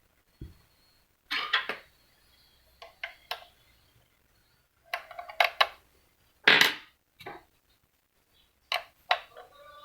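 Irregular clicks and short clatters of hard plastic and metal parts being handled while a receipt printer is taken apart, with quiet gaps between them and the loudest knock about two-thirds of the way through.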